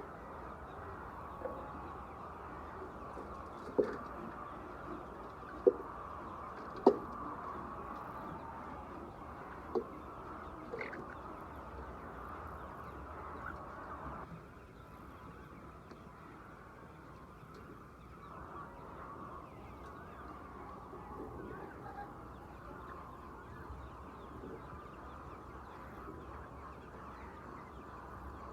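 A flock of laying hens clucking steadily in a chicken house. Four short, loud sharp sounds stand out in the first ten seconds.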